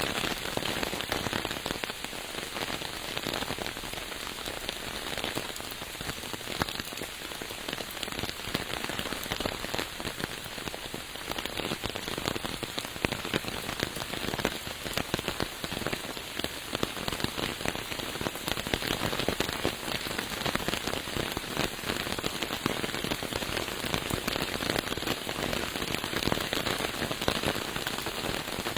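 Steady rain, a dense, even wash of countless individual drops hitting a surface.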